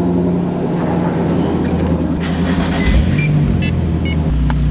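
Nissan 350Z's 3.5-litre V6 idling steadily, heard from inside the cabin, with a thump about three seconds in.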